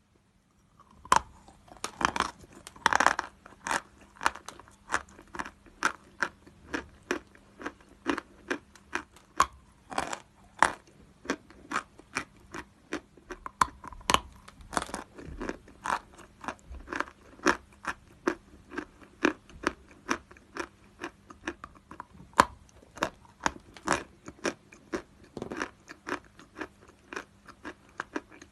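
Edible chalk being bitten and chewed close to the microphone: a steady run of sharp crunches, two or three a second, with a few louder bites among them, starting about a second in.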